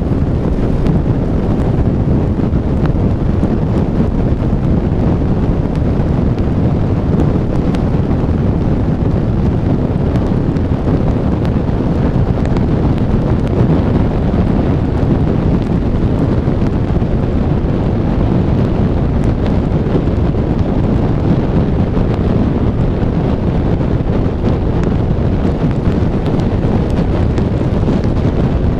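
Steady, loud rumble of driving on a rain-wet highway, with the low noise of tyres and rain and faint scattered ticks of drops over it.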